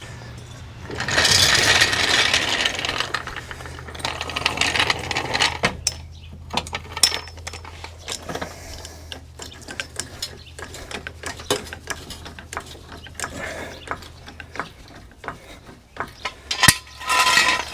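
Car being lowered off its jacks: ratcheting and metal clicks and clanks from the floor jack and jack stands, with a stretch of noise lasting about two seconds near the start and many separate knocks after.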